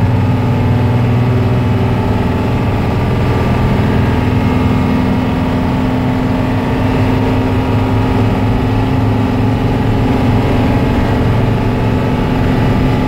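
Blue Bird school bus under way in third gear, its engine and Allison AT545 automatic transmission running at a steady pitch. The transmission holds third gear late because its modulator cable needs adjusting.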